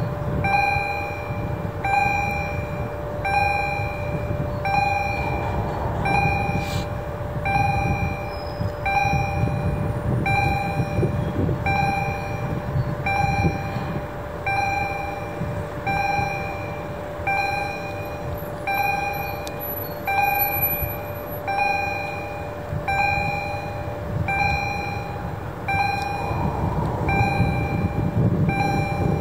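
Electronic railway level-crossing warning bell ringing steadily, about one ding a second, over a low rumble.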